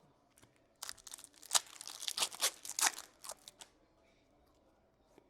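A trading card pack's wrapper being torn open and crinkled by hand, a quick run of sharp crackling tears lasting about three seconds from about a second in.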